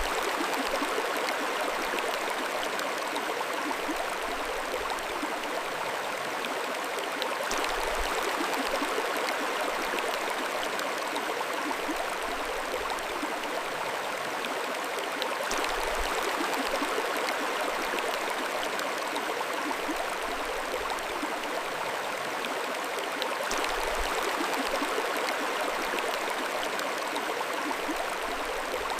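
Mountain stream flowing steadily, a continuous rush and babble of water over stones.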